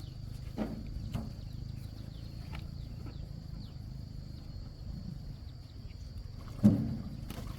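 A few short knocks, the loudest near the end, over a steady low rumble and a faint high steady whine.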